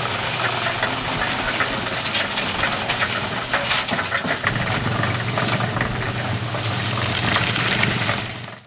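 A motor running steadily under many scraping, rattling clicks, fading out near the end.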